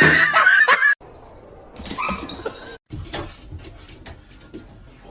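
A pet's high, whining cry that cuts off abruptly about a second in, followed by quieter scattered clicks and knocks.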